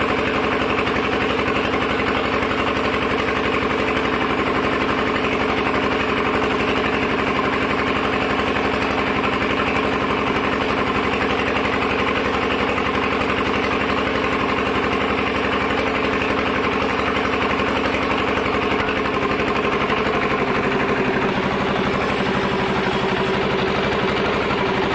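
Sawmill machinery running steadily at a constant engine-like pitch, with a slight change in tone about twenty seconds in.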